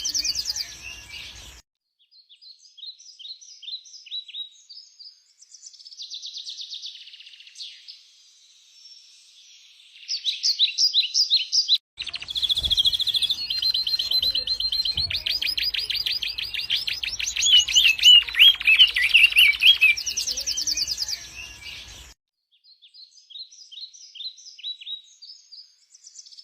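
Songbirds chirping and trilling in rapid, high-pitched phrases. The birdsong comes in several stretches that cut in and out abruptly, busiest and loudest in the middle.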